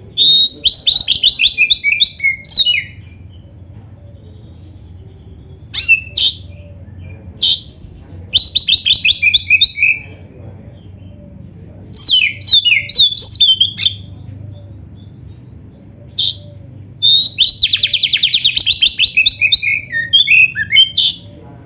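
Oriental magpie-robin singing loudly in four bouts of fast, varied whistled phrases with short pauses between them, the last bout holding a rapid trill.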